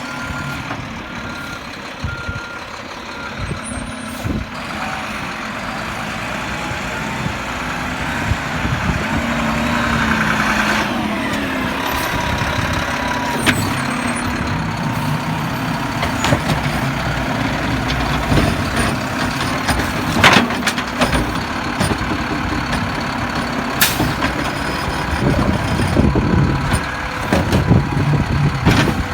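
Garbage truck's diesel engine running and working, with a few reversing beeps in the first seconds and several sharp metallic knocks later on.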